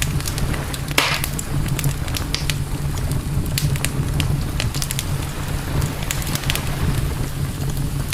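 Campfire crackling, with frequent sharp pops and snaps and one louder pop about a second in, over a steady low rumble.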